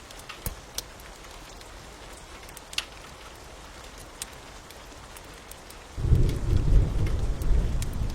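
Steady rain with sharp, scattered crackles and pops of a burning wood fire. About six seconds in, a loud, low rumble of thunder sets in and keeps going.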